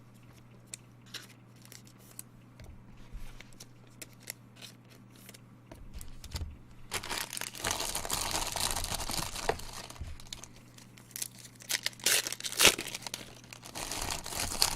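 A trading-card pack's wrapper being torn open and crinkled by hand, in two spells of rustling after a few seconds of light clicks and handling noises. A faint steady hum runs underneath.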